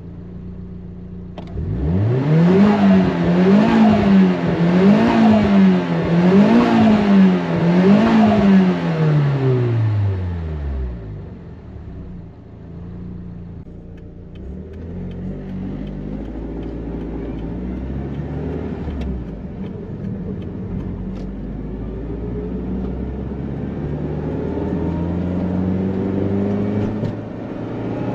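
Turbocharged four-cylinder of a 180SX Sil-Eighty with a Blitz aftermarket muffler, idling, then revved about five times in quick succession before it settles back to idle. Near the end the engine note climbs slowly again.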